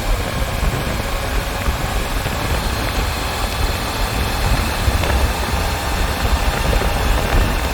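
Motorcycle running at a steady speed: a constant low engine rumble under a steady rush of wind noise on the microphone.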